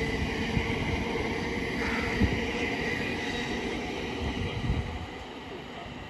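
Thameslink Class 700 electric multiple unit running through on the rails, with a steady rumble and a thin steady whine, fading away over the last second or two.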